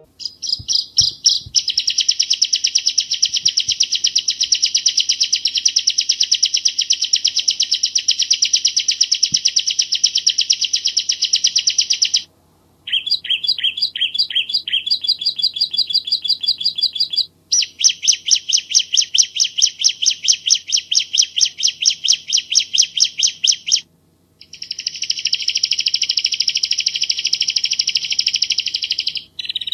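Bar-winged prinia (ciblek jawa) singing in long bouts of very rapid, evenly repeated high notes. It breaks off briefly three times, and after the first break the notes start slower before speeding up again.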